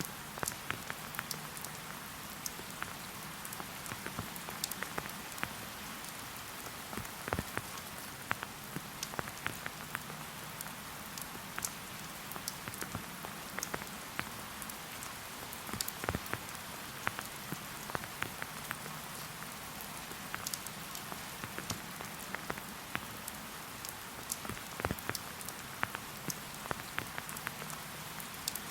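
Steady rain in a forest, an even hiss with frequent irregular sharp ticks of single drops landing close by.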